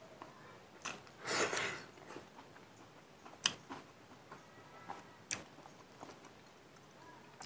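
Close mouth sounds of a person eating rice and mustard greens by hand: quiet chewing with scattered wet clicks and smacks, and a short rush of noise about a second and a half in.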